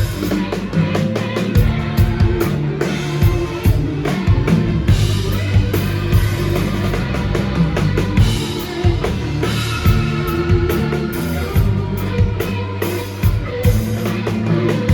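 Live rock band playing an instrumental passage: drum kit with bass drum and snare hits over a steady bass line, with sustained keyboard and guitar tones.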